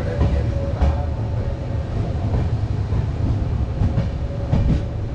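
Passenger train coach running over the track: a steady low rumble with a faint steady whine, and a few sharp wheel clacks over rail joints, one about a second in and several near the end.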